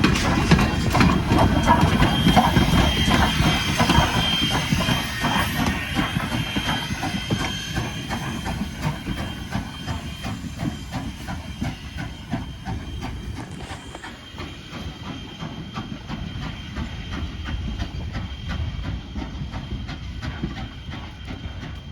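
A train rolling past, its wheels clicking rhythmically over the rail joints with a steady hiss; loudest at first, then fading as it moves away.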